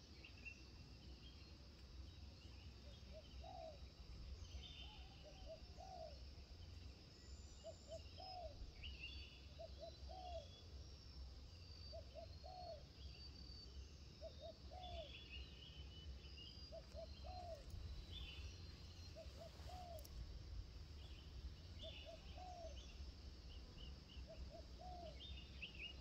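Faint birdsong outdoors: one bird repeats a low, short two-note call about every one and a half to two seconds, while other birds chirp higher up, over a steady low rumble.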